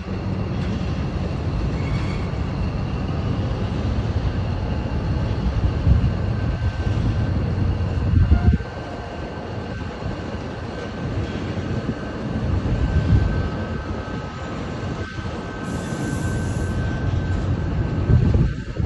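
A train of torpedo ladle cars rolling on rails: a steady low rumble with faint, steady high-pitched tones above it.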